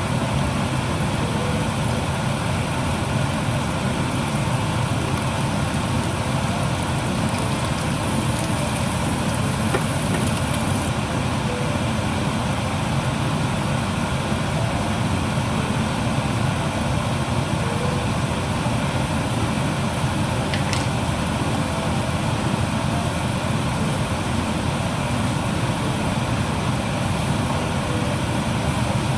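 Steady, even rumble of a vehicle in motion, with no change in pitch or speed.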